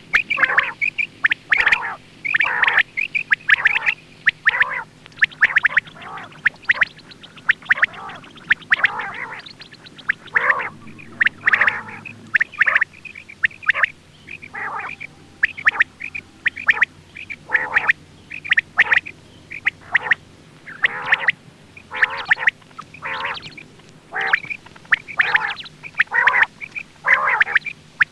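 Quail calling over and over in short, sharp calls, about one to two a second with small pauses: a quail call of the kind played to lure quail for hunting.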